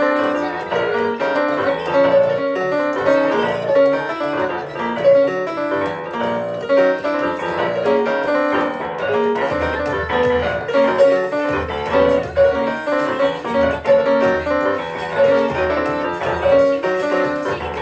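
Pianos playing an ensemble arrangement of a K-pop song, busy melody and chords over a steady pulse; deep bass notes join about halfway through.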